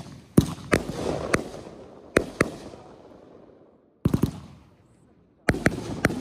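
Aerial fireworks bursting overhead: sharp bangs in quick groups, each trailing off in echo. After a short lull, two more clusters of bangs come about four and five and a half seconds in.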